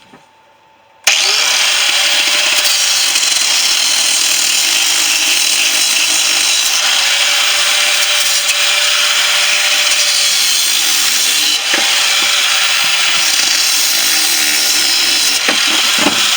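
Angle grinder with a cut-off disc starting abruptly about a second in and cutting steadily into the steel shell of a large refrigerator compressor, its motor tone wavering under load.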